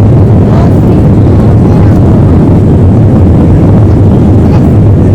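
Airliner cabin noise: a loud, steady low rumble from the engines and airframe, with no sudden changes.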